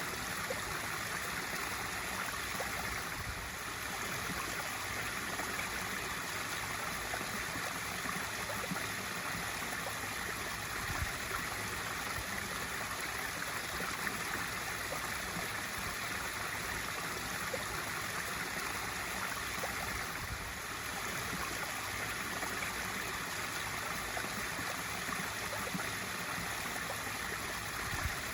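Swimming pool waterfall feature running, a steady splashing rush of water falling into the pool.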